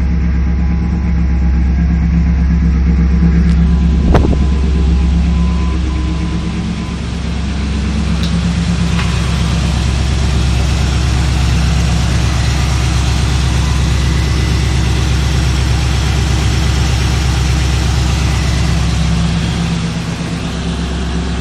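355 small-block Chevy V8 idling steadily through a Flowmaster single exhaust with a Flowmaster 40 muffler. A single sharp knock comes about four seconds in.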